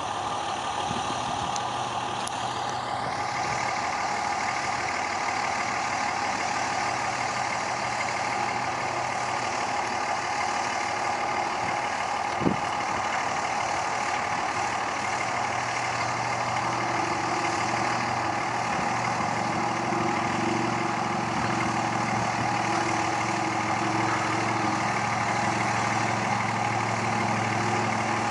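Pickup truck engine running steadily near idle, its low note growing stronger about halfway through as it works harder. A single sharp knock comes a little before that.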